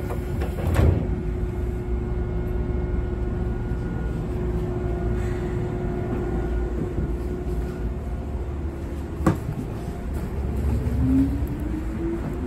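Electric commuter train running, heard from inside the carriage: a steady low rumble with a held tone, a sharp knock about a second in and another near the end, then a motor whine rising in pitch as the train speeds up.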